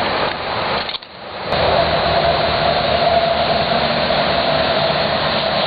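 Steady loud roar of freeway traffic, which dips briefly about a second in, then comes back and holds steady.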